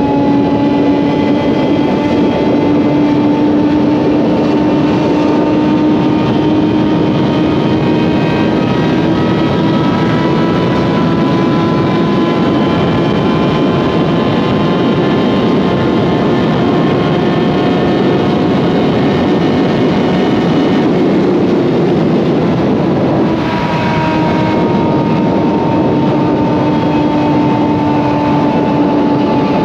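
Suzuki GSX-R750 inline-four with an M4 slip-on exhaust, running hard at steady highway speed, its note creeping slowly higher and dropping slightly about three-quarters of the way through. Wind rushes over the microphone underneath.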